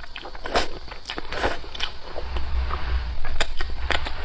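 Close-miked eating: a person biting and chewing mixed rice noodles, with short wet clicks and smacks at irregular intervals.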